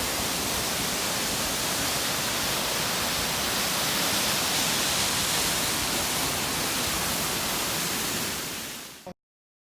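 Steady rushing of water from Stewart Falls, a two-tier waterfall, heard close up. The rush fades out about nine seconds in and cuts to silence.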